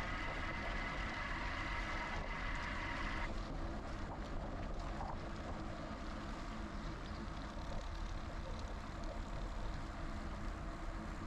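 Riding noise from a GoCycle GX electric bike: steady wind and tyre rumble, with a high motor whine that cuts off suddenly about three seconds in.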